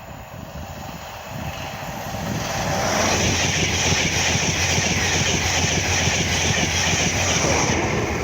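InterCity 225 express train, Driving Van Trailer 82225 leading and Class 91 electric locomotive 91124 at the rear, passing at speed: a rush of wheel and air noise with a steady low hum. It builds over the first couple of seconds, holds loud for about five seconds and begins to fade near the end.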